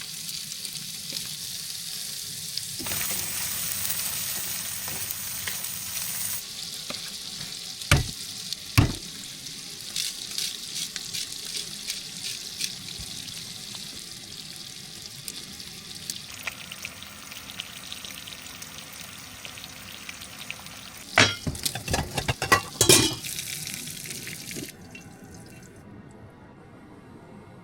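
Canadian bacon and leftover steak frying in butter in a pan, a steady sizzle broken by a few sharp knocks. The sizzle drops away near the end.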